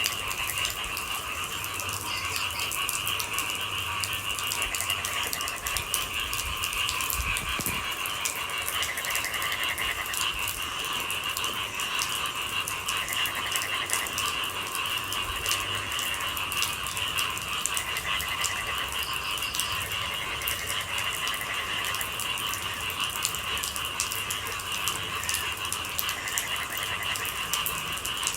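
Rain falling in many small drops, over a steady, high-pitched chorus of night animals calling without pause.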